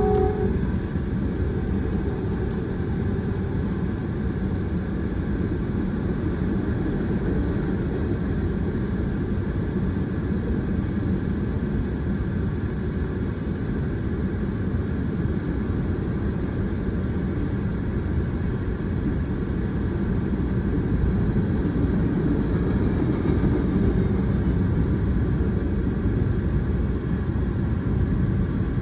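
Norfolk Southern freight train rolling through a grade crossing, heard from inside a car: a steady low rumble of locomotives and freight cars on the rails. A train horn cuts off just after the start.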